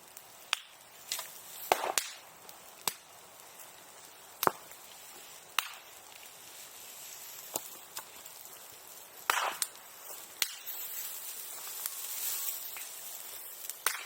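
Bonfire of old sericulture tools burning, crackling with a dozen or so sharp, irregular pops like firecrackers. A stretch of hissing from the fire comes about ten to thirteen seconds in.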